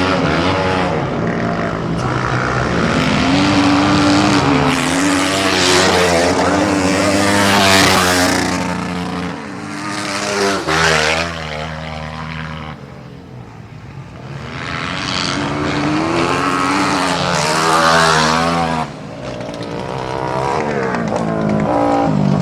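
450cc dirt-track racing motorcycles at full throttle, engine pitch climbing and falling as the bikes accelerate and pass. The sound swells loudest about eight seconds in and again near eighteen seconds in, and dies down in between as the pack moves farther off.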